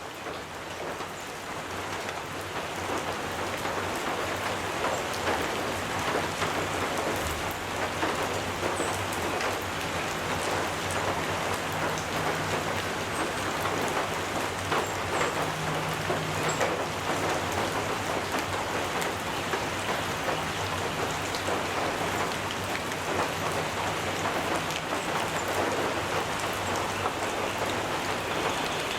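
Gentle rain pattering on a metal roof, a steady dense patter of drops that fades in over the first few seconds. Occasional faint high bird chirps sound over it.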